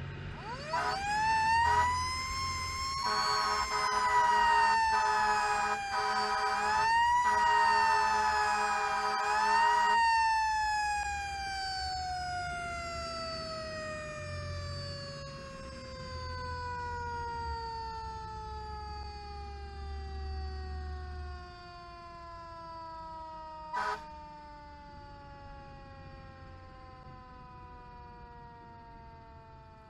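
Fire engine's mechanical siren winding up, held high with a few re-winds, then coasting slowly down in pitch for most of the rest. A steady horn sounds in several blasts during the wind-up, and the truck's engine runs underneath.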